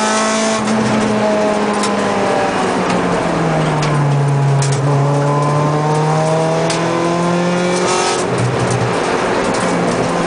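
Honda Civic VTi's four-cylinder engine running hard, heard from inside the cabin of the racing car: its pitch falls over the first few seconds, drops at about three and a half seconds, then climbs steadily, dips near eight seconds and climbs again.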